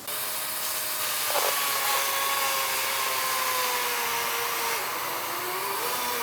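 Kobalt 24-volt battery chainsaw starting suddenly and cutting into a tree trunk: an electric motor whine over the hiss of the chain through wood. The pitch sags slowly under load, drops further about five seconds in and picks up again near the end.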